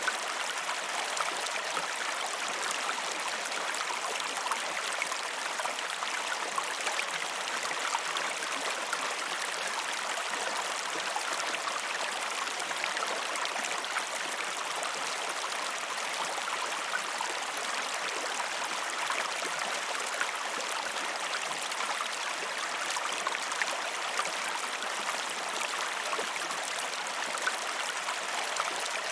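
Flowing river water, a steady rushing with fine splashing and gurgling detail throughout.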